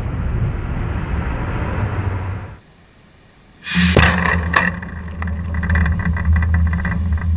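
Power hammer press working on a watermelon. A steady low machine noise cuts out a little past two seconds in. About four seconds in come two sharp impacts half a second apart, then a steady low hum with scattered clicks.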